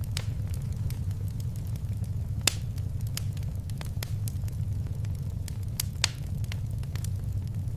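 Wood fire crackling in a fireplace: irregular sharp pops and snaps over a steady low rumble of the flames, with two louder pops about two and a half and six seconds in.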